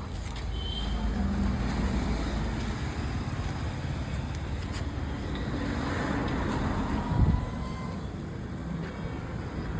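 Road traffic: motor vehicles running past on the street. A short low thump about seven seconds in.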